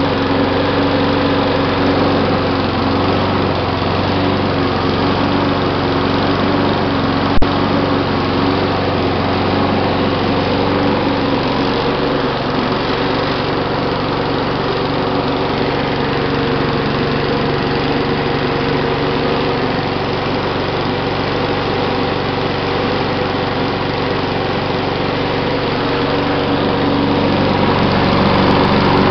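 3.5 hp Briggs & Stratton Classic engine on a walk-behind lawn mower running steadily just after a cold start, throttle open and warming up after weeks of sitting. A single sharp click sounds about seven seconds in.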